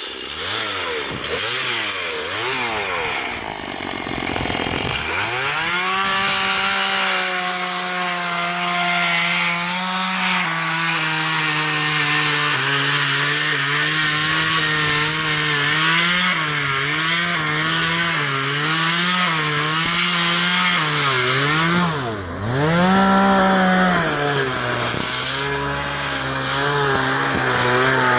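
Two-stroke chainsaw running at high revs while cutting wood, its engine pitch repeatedly sagging under load and picking up again. It is revved up and down quickly at the start, and drops sharply before recovering about 22 seconds in.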